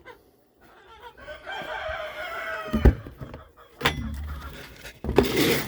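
Rooster crowing once, a drawn-out call of about a second and a half, with chickens around it. A sharp thump follows about three seconds in, and there is a short noisy burst near the end.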